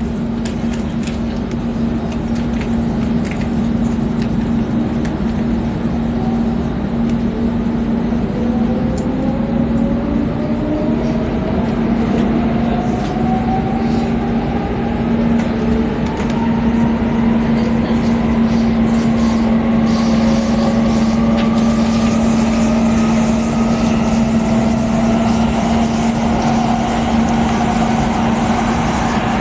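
X10 electric commuter train accelerating, heard from on board: a steady hum over the running noise, and from about eight seconds in a traction-motor whine that rises steadily in pitch as the train gathers speed.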